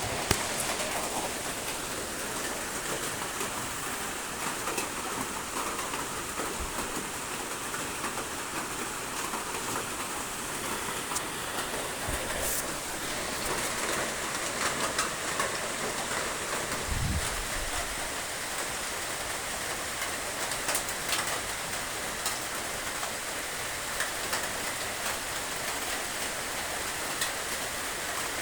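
Steady rain falling and pattering on a surface, with scattered individual drops ticking. A brief low thud comes about two-thirds of the way in.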